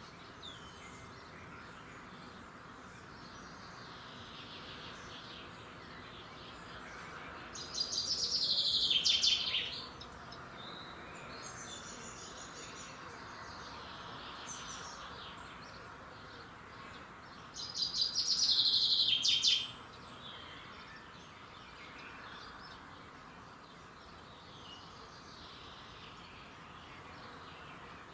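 A songbird singing two loud phrases about ten seconds apart, each a roughly two-second run of quick notes falling in pitch, over a steady faint hiss of background sound.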